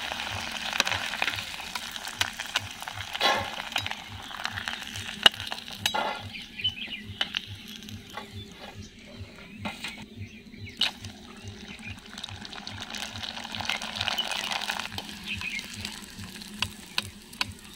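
Rice-flour crisps deep-frying in hot oil in a kadhai, sizzling, with scattered clicks and scrapes of a utensil stirring them in the pan. The sizzle is louder for the first few seconds and again near the end, and quieter in between.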